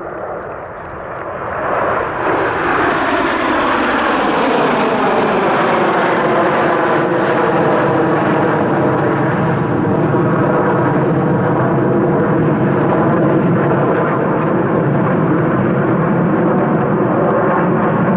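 Formation of BAE Hawk T1 jets with Adour turbofan engines passing, a loud jet roar that builds over the first two seconds. A whine slides down in pitch as they go by, then the roar holds steady.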